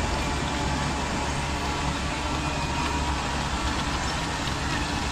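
Steady engine-like running drone from RC construction machines, a model dozer and dump trucks, holding an even level without revving.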